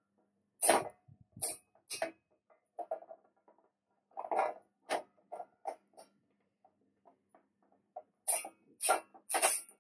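Plastic cable tie being pulled through its ratchet head in short tugs: a string of irregular clicks and brief ratcheting zips as the tie is drawn tight.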